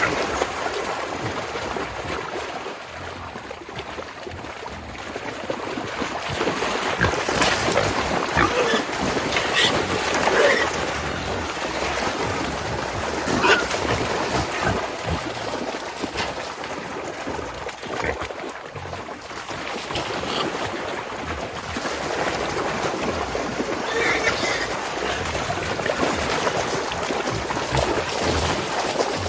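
Wild hogs in a muddy trap, sloshing and splashing through mud and water, with a few short squeals scattered through.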